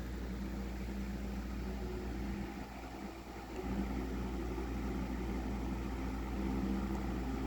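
A Midea-made 2011 Hawaiian Breeze 12-inch oscillating table fan running on medium. The motor hums steadily and the blades move air, with a brief dip in level about three seconds in. The owner thinks it is running a little slow.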